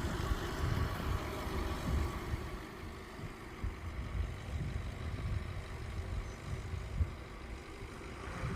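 Road vehicles' engines running at the railroad crossing, a low uneven rumble that eases after the first second or so.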